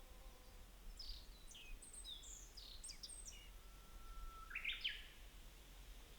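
Wild birds singing over a faint steady hiss: first a run of quick, high chirping notes, then a held whistled note that breaks into a short burst of higher notes about three-quarters of the way through.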